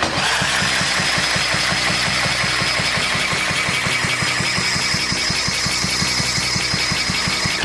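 Electric drill spinning over a 1949 Briggs & Stratton WI single-cylinder engine with its spark plug out for a compression test: a steady drill whine over a rapid, even beat from the engine turning over, starting suddenly and stopping just before the end.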